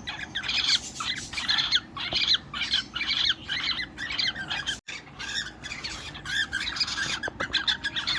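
Cockatiels giving a steady run of short, repeated squawking chirps, about three or four a second.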